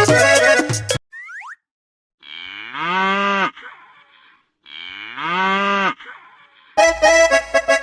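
Accordion music breaks off, a short falling whistle-like glide sounds, and then a cow moos twice, the same long moo repeated about two and a half seconds apart. The music starts again near the end.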